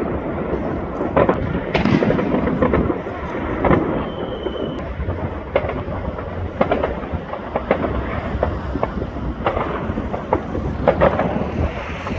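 Fireworks display: an irregular run of sharp bangs and crackles over a continuous low rumble, with a short high whistle about four seconds in.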